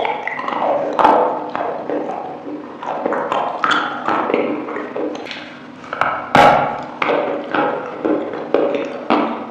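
Close-miked eating sounds: wet, sticky chewing with many quick irregular clicks and crunches, the sharpest about six seconds in.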